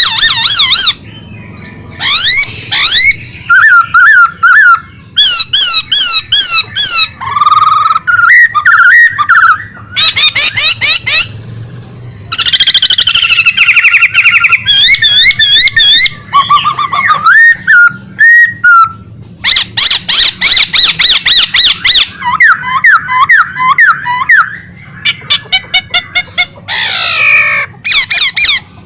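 A kept songbird singing loudly and nonstop ("gacor"): fast runs of repeated notes, swooping whistles and harsh rattling phrases, changing every second or two with only brief pauses.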